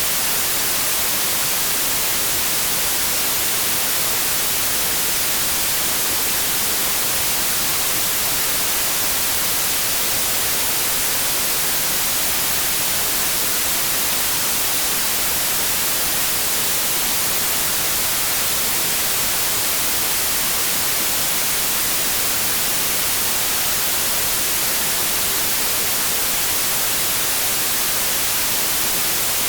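Steady, unchanging white noise: an even electronic hiss, strongest in the high frequencies.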